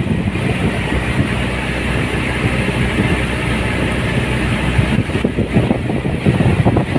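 A boat's engine running steadily while under way on the lake, a constant low drone. From about five seconds in, irregular knocking and rushing noise rise over the engine.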